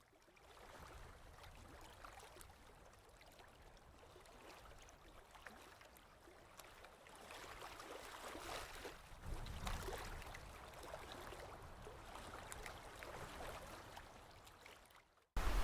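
Faint running water with small scattered clicks, fading in at the start; a low rumble grows about nine seconds in.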